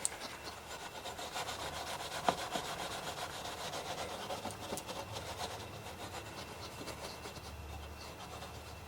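Steel wool being scrubbed rapidly back and forth over a workbench table to clear off oil and built-up grime, with one sharper click about two seconds in.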